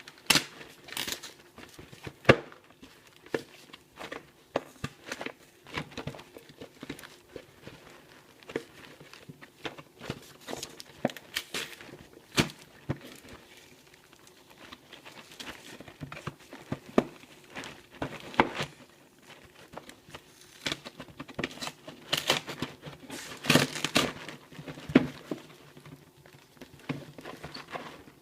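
Packaging being opened by hand: irregular crinkling, rustling and tearing with scattered sharp crackles, busiest in the last third.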